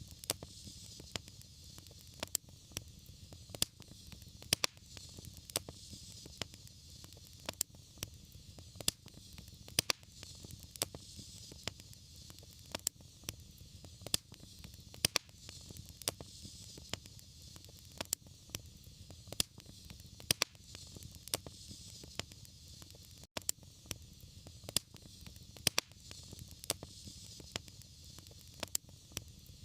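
Wood fire burning in a fireplace, crackling with frequent sharp pops over a steady low rumble and hiss of the flames.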